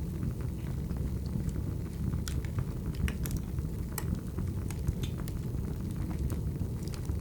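Burning firewood: a steady low rumble of flames with sharp crackles and pops at irregular moments.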